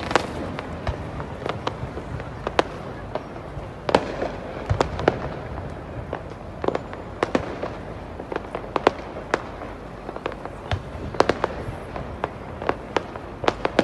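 Fireworks display going off: many sharp bangs and cracks at irregular intervals over a steady background noise.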